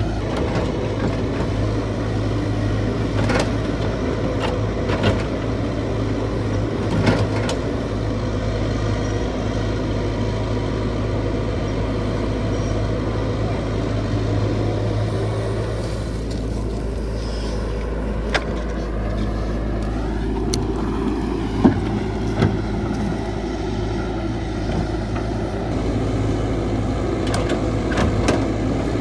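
Caterpillar 312 hydraulic excavator's diesel engine running steadily while digging, with occasional sharp metallic knocks and a short rising whine about twenty seconds in.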